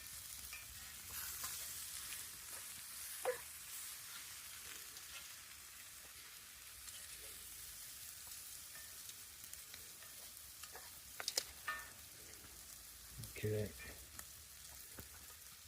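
Chicken frying in a pan with barbecue sauce: a steady, faint sizzle, with a few clicks and knocks of a utensil against the pan.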